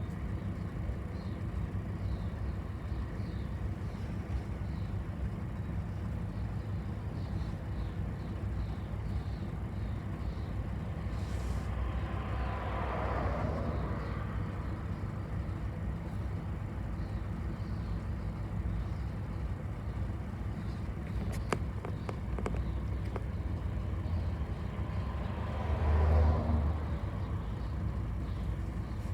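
A bus driving along, its engine and tyre noise a steady low rumble, with two brief louder swells, about halfway through and near the end, and a few faint clicks in between.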